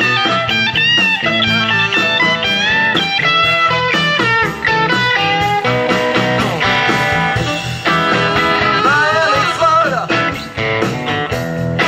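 Blues-rock band playing, with an electric guitar lead; a run of bent notes about nine seconds in.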